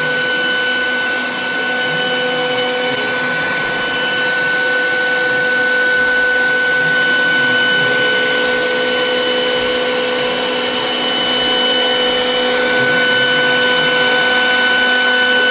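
Grizzly G0932 4x8 CNC router running with its vacuum hold-down table on: a steady machine whine with several held tones over a constant rush.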